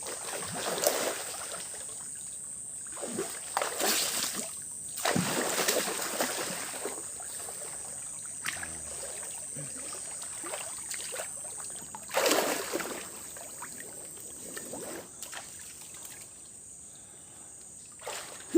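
Shallow river water splashing as someone wades and moves through it, several separate splashes over steady running water.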